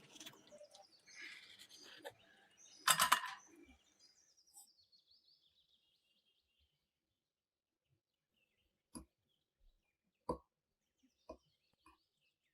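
Kitchen handling sounds: a short clatter about three seconds in, faint high chirping squeaks, then a few single light knocks spaced about a second apart near the end.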